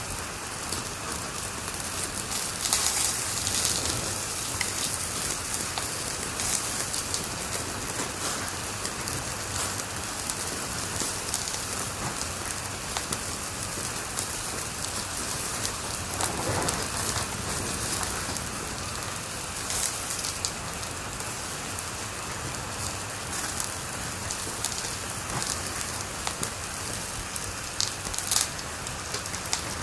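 Wood fire crackling in a fireplace: a steady hiss dotted with many small pops, with louder bursts of crackling about three seconds in and near the end.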